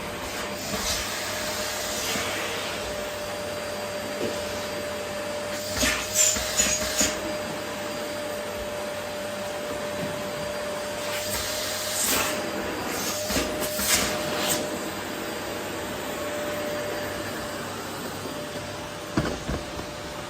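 Vacuum cleaner running steadily, with a constant hum under its rushing air noise. Short bursts of clicking and rattling come about six seconds in, again around twelve to fourteen seconds, and once more near the end.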